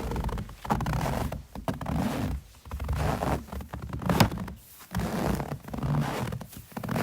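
Footsteps crunching in snow, about one step a second, each a rough scrunch, with a sharp click a little past four seconds in as the loudest moment.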